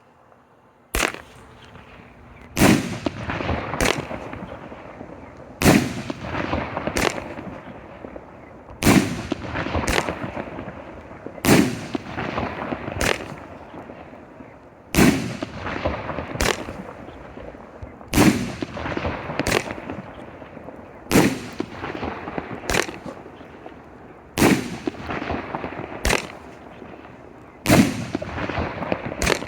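A 16-shot Thunder Chrysanthemum firework cake firing its shots one after another. The bangs come in pairs about every three seconds, each a loud bang with a long noisy tail followed about a second later by a sharper bang.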